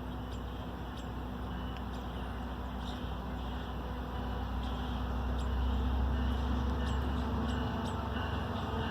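Amtrak Piedmont passenger train approaching: a steady low diesel rumble and hum that grows louder about five and a half seconds in, with faint short high squeaks over it.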